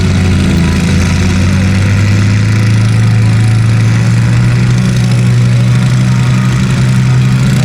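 A pulling tractor's engine runs hard under load as it drags the weight sled, its pitch rising slowly and steadily.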